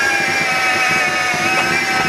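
Miele Complete C3 vacuum cleaner motor running at full speed, a steady high whine with several pitched tones over a rough, rattly noise; the owner believes this machine is broken.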